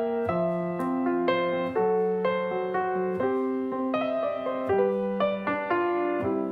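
Piano music: a gentle melody of held chords and single notes, changing every half second or so.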